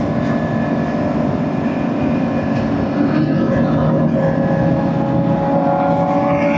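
Motorcycle engines running steadily, several held engine notes layered over each other, one note climbing a little in pitch about halfway through.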